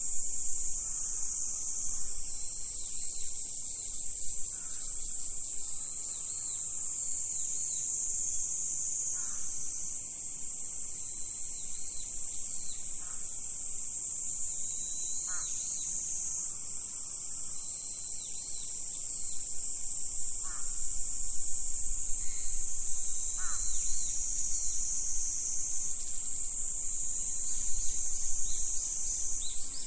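Continuous high-pitched insect chorus, steady throughout, with faint scattered bird chirps over it.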